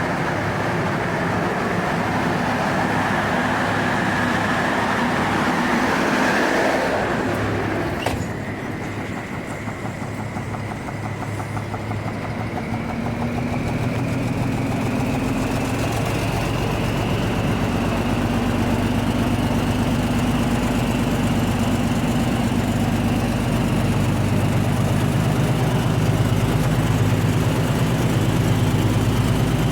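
A large machine running steadily, with a sharp click about eight seconds in, after which a high whine rises in pitch over several seconds and then holds.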